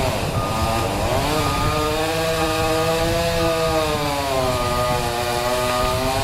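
Chainsaw running at high revs while cutting wood. Its pitch drops sharply just after the start and climbs straight back, then wavers slightly as the load on the chain changes.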